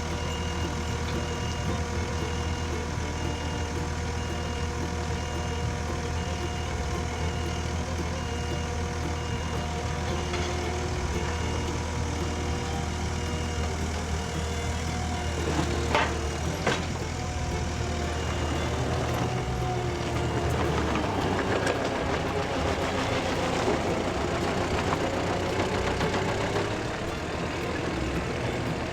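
Skid steer loader's engine running steadily, with a faint high beep repeating through the first third. There are two sharp knocks about sixteen seconds in, then the engine note rises and falls for several seconds near the end.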